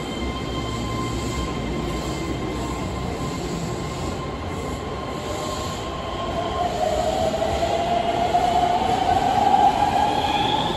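Keihan electric train pulling out of an underground station. Steady electrical tones at first, then from about halfway a rising motor whine that grows louder as the train gathers speed, over the rumble of the wheels.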